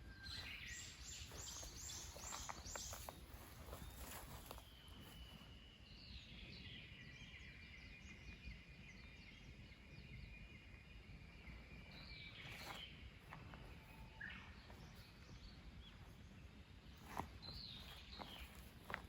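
Faint wild birdsong over a low steady background hiss. A quick run of five or six high repeated notes comes in the first few seconds, then a long trilling phrase lasting several seconds, then a few single calls.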